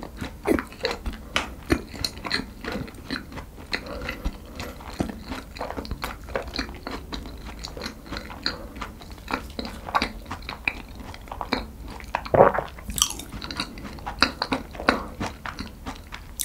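Close-miked chewing of a mouthful of pastry with the mouth closed: a dense run of small wet clicks and crackles, with one louder mouth sound about twelve seconds in.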